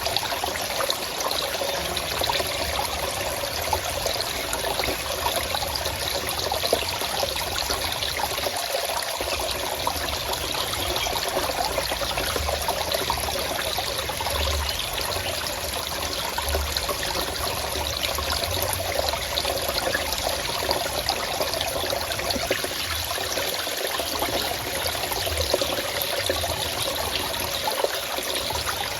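Forest stream flowing with a steady trickling babble of water, unchanging throughout.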